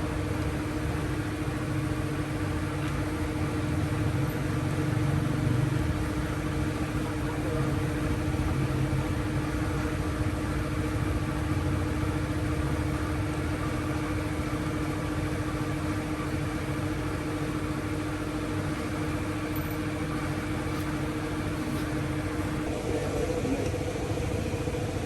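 A machine running steadily with a constant hum, its pitch stepping up near the end.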